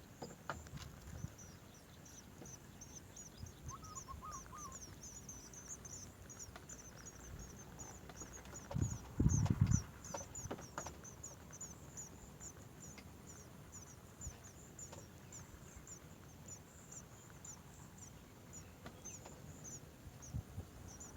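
A bird chirping high and fast, a few short chirps a second, steadily throughout. A brief low rumble comes about nine seconds in.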